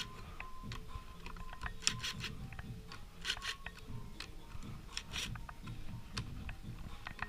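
Light metallic clicks and clinks of hand work on a motorcycle engine's clutch, with bolts and small steel parts being handled, and a few brief rasping bursts about two, three and five seconds in.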